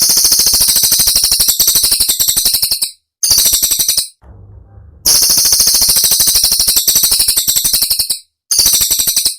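Cililin bird song of the rapid-fire 'tembakan' kind: very fast, high-pitched rattling notes run together into dense volleys of one to three seconds. Four volleys come in, with short breaks between them.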